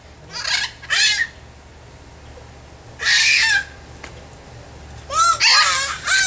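A parrot calling in short bursts: two quick calls in the first second, a harsh squawk about three seconds in, and a longer run of wavering calls near the end.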